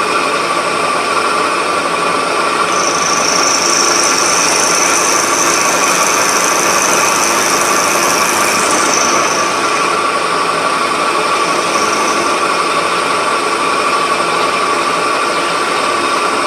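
Milling machine running with a steady whine while cutting metal held in a vice. A higher hiss joins it from about three seconds in until about nine seconds.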